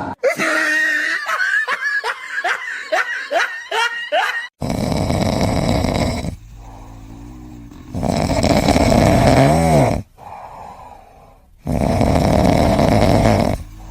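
An animal snoring in long, loud breaths about every three to four seconds, after a quick run of short squeaky cries in the first four seconds.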